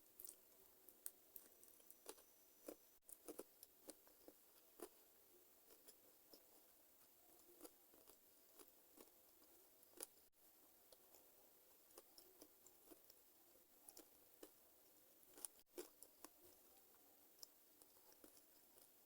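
Faint, close-miked chewing of chicken feet: irregular sharp clicks and small crunches of skin and cartilage being bitten and chewed, a few each second.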